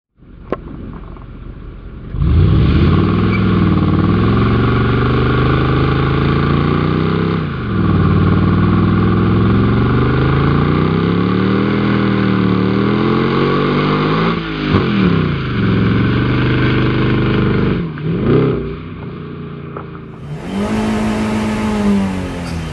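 Straight-piped Mercedes-AMG W211 V8 running hard under load, its pitch climbing and falling over and over, with sharp drops and quick climbs back up about seven seconds in and again about fifteen seconds in. Near the end a separate recording of the engine starts, its pitch steadier and then falling.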